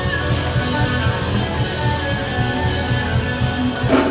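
Live gospel band playing an instrumental passage, with guitar over bass and drums.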